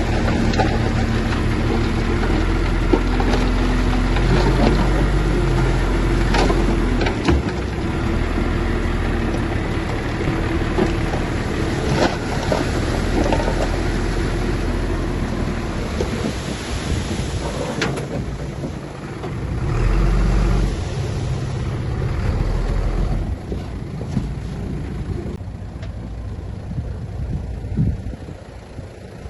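Bulldozer's heavy diesel engine running under load, its note shifting several times, with occasional sharp knocks and rattles from the machine and the stone it pushes. It fades somewhat near the end.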